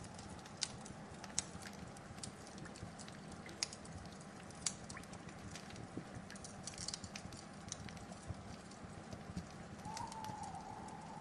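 Wood fire crackling: irregular sharp pops and snaps over a steady soft hiss, with a thin steady whistling tone underneath.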